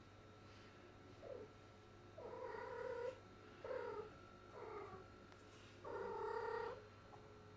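Domestic cat in heat calling: a series of five short, pitched, drawn-out calls with pauses between, the longest nearly a second, the typical mating call of a female cat in estrus.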